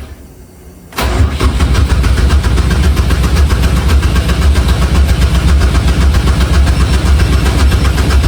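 Race car's engine being cranked on the starter. The cranking cuts in suddenly about a second in and turns over steadily and evenly for the rest of the time.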